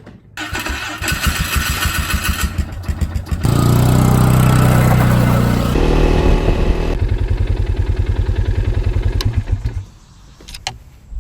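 Motorcycle engine running with an even pulsing beat, revving higher for a few seconds about three seconds in, dropping back to a pulsing idle, and shutting off about ten seconds in.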